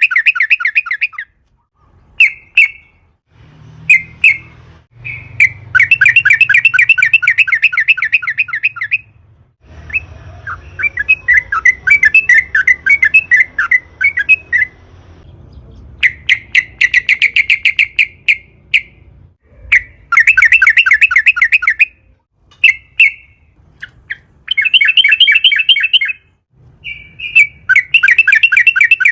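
Yellow-vented bulbul (trucukan) singing its long rolling song: fast bubbling phrases of one to three seconds, repeated with short single notes between them, and a softer, looser run of notes about ten seconds in.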